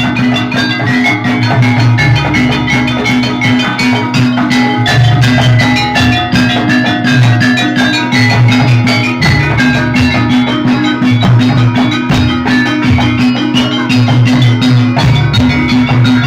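Javanese jaranan dance accompaniment: a gamelan-style ensemble of drums and ringing metal percussion playing a steady, driving rhythm.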